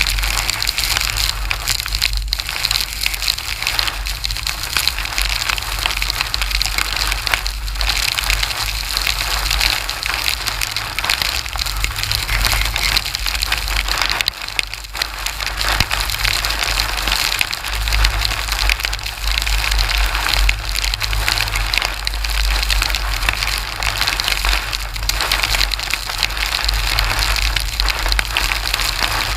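Heavy rain pelting down in a steady dense hiss, with a gusting low rumble of wind on the microphone.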